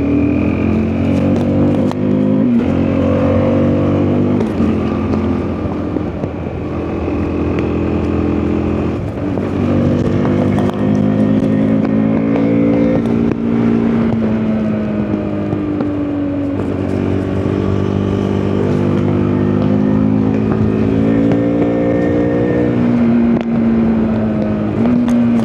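KTM RC 390 single-cylinder engine under way, pulling up through the revs and shifting: its pitch climbs steadily and then drops sharply several times, with some wind noise.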